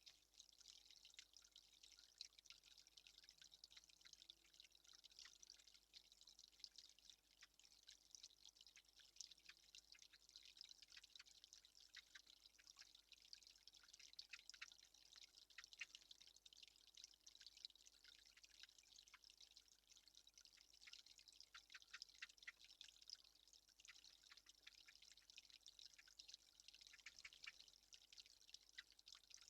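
Faint, dense patter of water drops: many small drips ticking continuously without a break.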